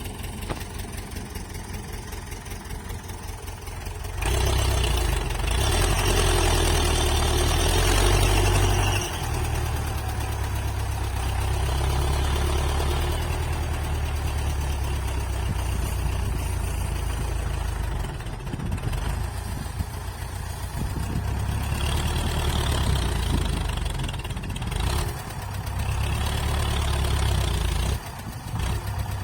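Tractor engine idling with a rhythmic chug, then revved up about four seconds in and kept running hard at high revs, the level dipping and swelling a few times.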